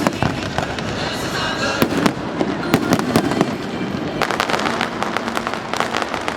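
Fireworks going off in quick succession: rapid cracks and pops over a steady rumble, thickening into a dense crackle from about four seconds in.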